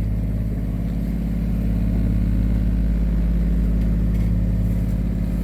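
Sailing yacht's inboard diesel engine running steadily at cruising revs while motoring under way, a constant low drone.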